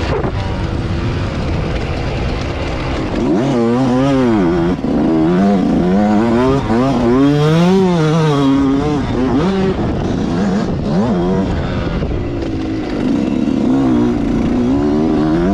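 Motocross bike engine revving, its pitch rising and falling several times over a steady noisy rush. The revving is clearest from a few seconds in to about two-thirds through, and it comes back near the end.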